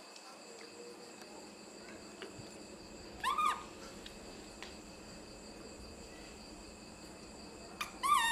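Baby monkey giving two short squeaky calls, each rising then falling in pitch, about five seconds apart, over a steady background of insect chirring.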